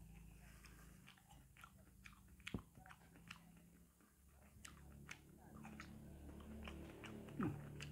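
Faint chewing and scattered small wet mouth clicks of a person eating ripe jackfruit pulp.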